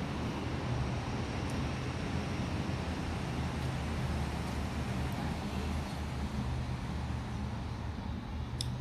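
Steady low vehicle rumble, with a couple of faint clicks near the end.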